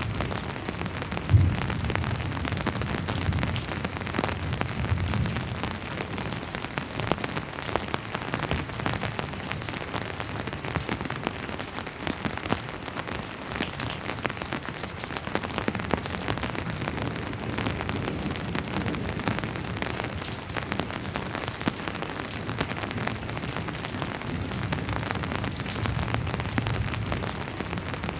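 Steady rain falling on a surface, with the ticks of many individual drops. Low rumbling swells come near the start and again in the last third, and a single sharp thump about a second and a half in.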